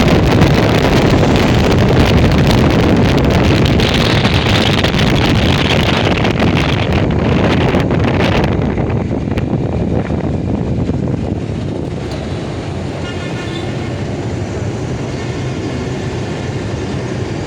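Wind rushing over the microphone on a moving motorcycle, along with engine and road noise. The rush drops off and gets duller from about eight seconds in, settling to a lower, steadier level.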